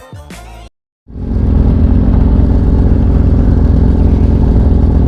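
Background music that cuts off near the start, then after a brief gap a motorcycle under way: a loud, steady rumble of engine and riding noise.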